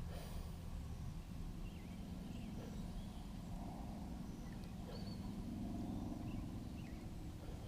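Birds calling now and then, faint short chirps and whistles, over a steady low rumble of water and wind against a kayak-mounted camera. A brief knock right at the start.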